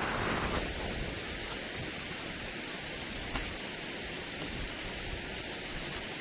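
Steady hiss of heavy rain, with a brief swell at the start and a couple of faint ticks.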